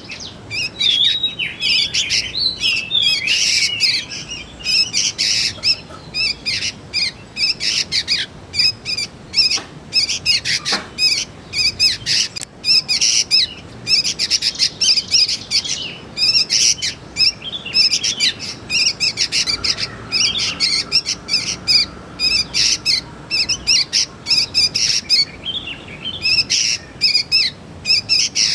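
Young sooty-headed bulbuls calling: a dense, continuous run of short, rapid, high chirps.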